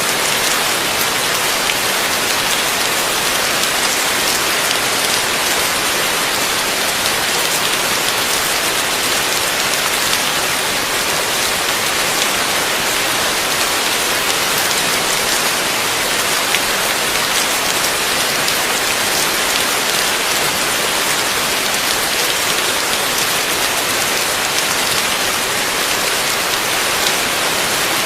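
Heavy rain falling steadily, a dense even hiss with many fine drop hits and no let-up.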